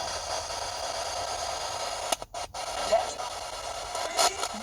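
Radio static hissing steadily from a ghost-hunting radio device, with brief dropouts and short bursts as it cuts in and out, about halfway through and near the end.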